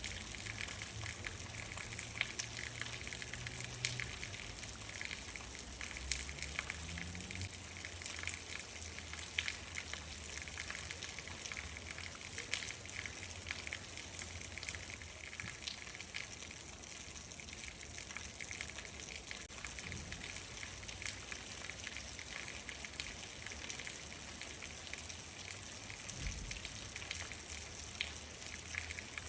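Steady rain falling: a constant hiss dotted with many sharp ticks of single drops striking a surface. A low rumble sits underneath for the first several seconds.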